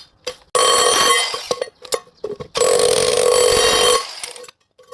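Electric demolition hammer with a flat chisel bit running in two bursts, hammering through iron scrap: one burst of about a second starting half a second in, then a longer one of about a second and a half.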